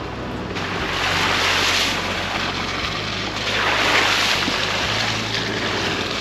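Chevy Colorado ZR2 AEV Bison pickup driving on a trail: a steady low engine hum with a rushing noise from the tyres and wind that swells twice, about a second in and again around four seconds in.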